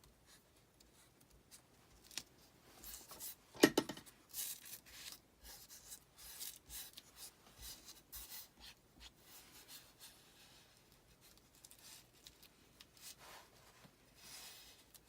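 Short, irregular scraping and rubbing strokes of hand crafting work on a hard surface, with one sharp knock about three and a half seconds in.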